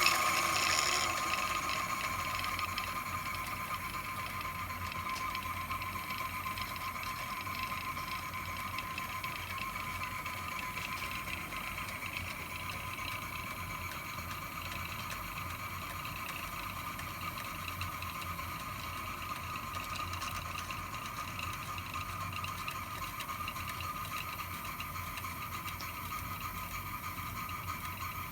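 Toy live steam engine running and driving miniature workshop accessories through belts and shafts: a steady mechanical whir with a high whine and a light rattle. Louder for the first couple of seconds, then steady.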